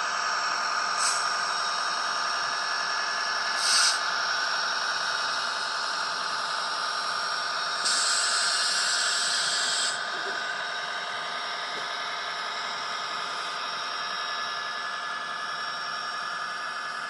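N gauge model train running: the locomotive's motor whines steadily while the wheels of a long rake of wagons roll over the track. Two short clicks come about one and four seconds in, and a louder hissing rub lasts about two seconds midway.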